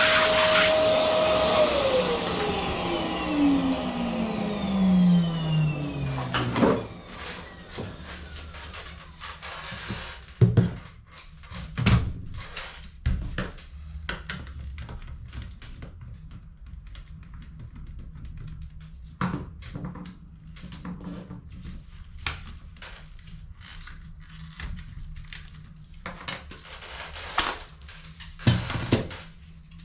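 An electric vacuum cleaner motor, of the kind used to clean toner from cartridges, is switched off about two seconds in. Its whine falls steadily in pitch as it spins down over several seconds. Scattered clicks and knocks of toner cartridge parts being handled follow.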